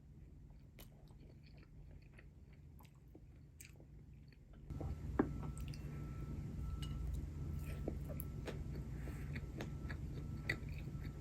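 Close-up eating sounds: a person chewing and biting food, with small wet clicks and crunches. About halfway through, a louder steady background noise comes in under the chewing.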